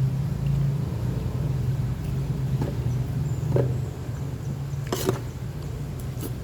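A steady low mechanical hum, with a few short sharp clicks and taps over its second half.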